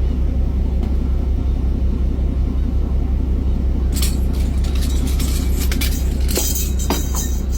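Fishing boat's engine running with a steady deep drone. About halfway through, a series of sharp knocks and clanks starts over it as the buoy and its gear are handled on deck.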